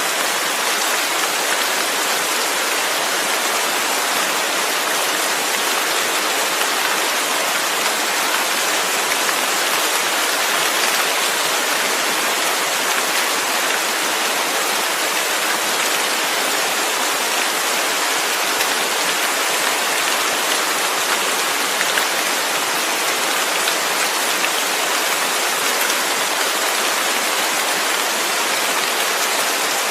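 Steady, even rain falling, a dense continuous hiss of raindrops.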